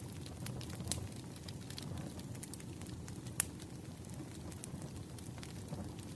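Campfire burning with a steady low rumble and frequent sharp crackles and pops, one louder pop about halfway through.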